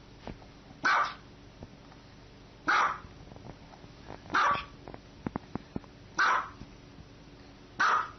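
A dog barking: five single barks evenly spaced, about one every second and a half to two seconds, with a few faint clicks between barks around the middle.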